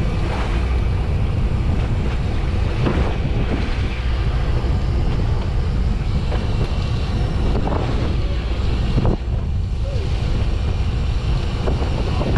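Wind buffeting the microphone on a boat at sea: a steady low rumble, with a few faint knocks.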